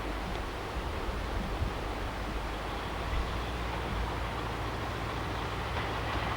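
Steady low rumble of a diesel locomotive's engine running, with a few faint knocks.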